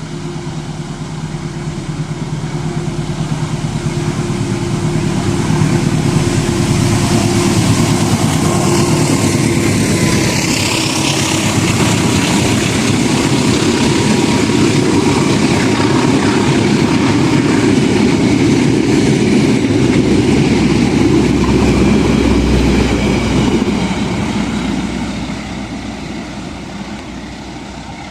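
Indonesian diesel-electric locomotive approaching and passing with a steady engine drone, followed by its train of carriages rumbling over the rails, then fading away near the end.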